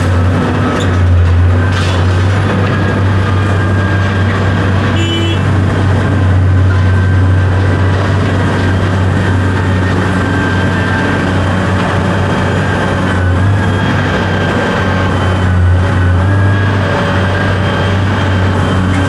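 Large engine running steadily at a constant speed, with a strong low hum and faint steady whines above it.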